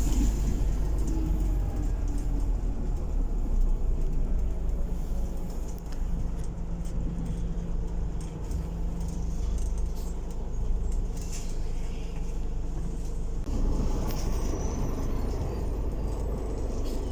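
Scania-engined bus running along, heard from inside: a steady low engine rumble with small rattles from the body. The engine note grows fuller about thirteen seconds in.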